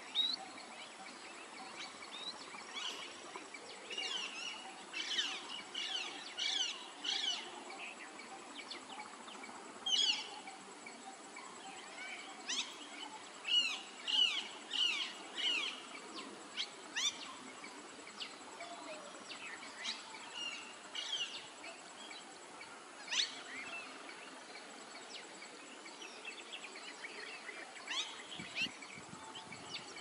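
Small birds chirping: quick, short, high notes coming in bursts with pauses between, over a faint steady background hiss.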